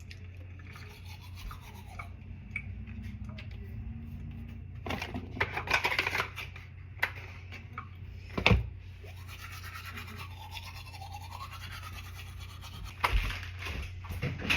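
Toothbrush scrubbing teeth in irregular bursts, with a sharp knock about eight seconds in and a low steady hum underneath.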